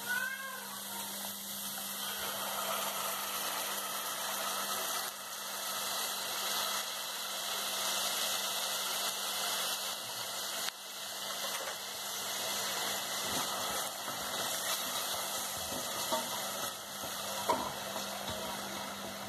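Thin beef slices and onions sizzling in a stainless steel pan after the marinated beef is tipped in: a steady frying hiss over a constant low hum. Two light clicks near the end.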